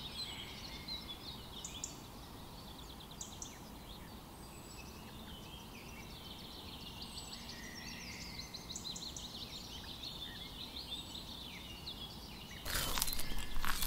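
Several songbirds chirping and trilling, faint and steady. About a second before the end, loud close crunching and scraping starts as a plastic toy cow is moved about on fine gravel.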